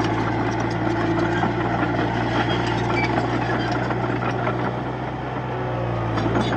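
Diesel engine of a Komatsu D31-P bulldozer running at a steady speed, easing off slightly a little before the end and picking up again.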